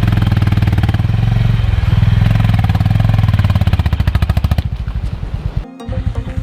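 Single-cylinder motorcycle engine running with a fast, even firing beat. Near the end the sound drops away sharply for a moment before the engine is heard again.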